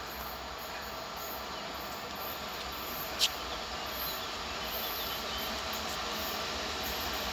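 Passenger train hauled by an EP07 electric locomotive approaching, a steady rumble growing slowly louder, with one short sharp click about three seconds in. Faint insect chirping runs underneath.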